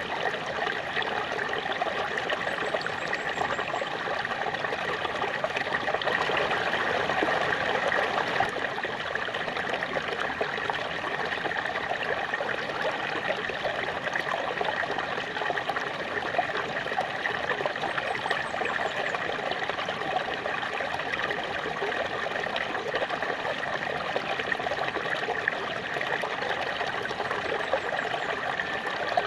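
Small waterfall: a steady, continuous rush of falling and trickling water.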